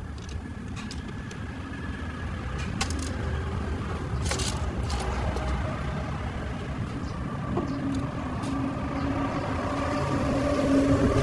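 A motor engine running with a low rumble, getting steadily louder toward the end, with a few sharp clicks about three to four and a half seconds in.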